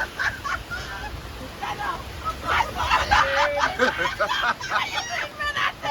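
Indistinct voices talking over a low steady rumble.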